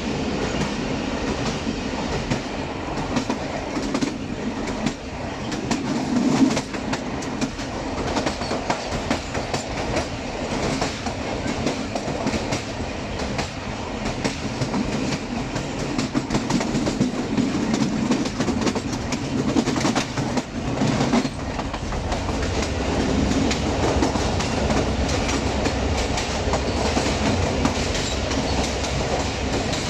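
Passenger train coaches running on the rails: steady rumble with irregular clicks of wheels over the track. The low rumble deepens about two-thirds of the way through, as the train runs into a tunnel.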